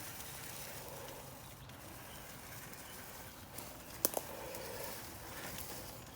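Traxxas TRX-4 scale RC crawler driving over trail dirt and rocks: a steady crunching and rustling of tyres on ground, with two sharp clicks close together about four seconds in.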